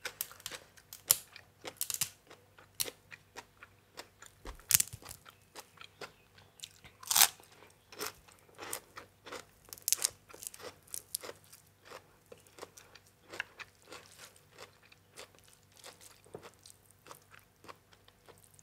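A person chewing crunchy raw vegetables close to the microphone, in a steady run of irregular crisp crunches and bites, with one louder bite about seven seconds in.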